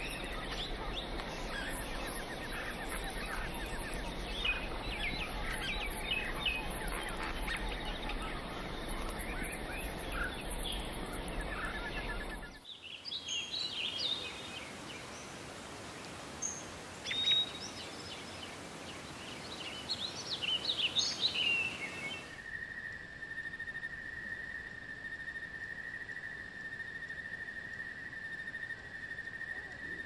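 Wild outdoor ambience in three parts: a dense chorus of bird chirps over a low rumble, then from a little before halfway scattered separate bird calls and chirps, and from about three-quarters through a steady high insect trill.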